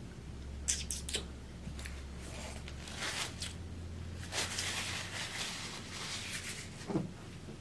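Small clicks and brief scratchy mouth and handling noises while food stuck in a tooth is being picked out, over a low steady hum.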